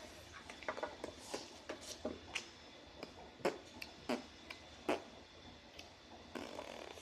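Scattered light knocks and rubbing of a small wooden birdhouse being handled and painted, with a few sharper taps about three and a half to five seconds in.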